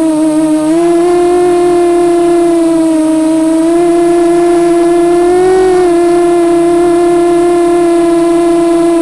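FPV drone's motors and propellers whining at a steady pitch that sways slightly with throttle, dipping about half a second in and around three seconds in, and rising a little just before six seconds.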